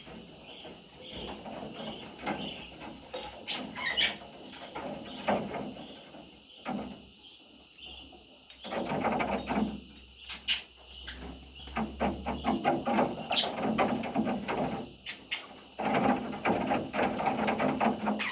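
Budgerigar chicks chirping and making raspy, rapidly pulsed calls in bursts of a few seconds, with short higher chirps in between.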